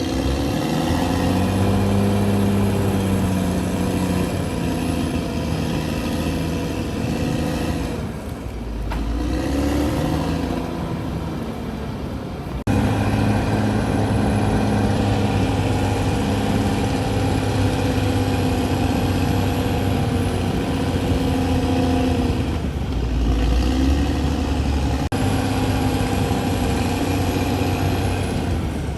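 Diesel engine of a CAT D6R XL bulldozer running under load, its note dipping and rising again several times as it works. The sound changes abruptly about 12 seconds in.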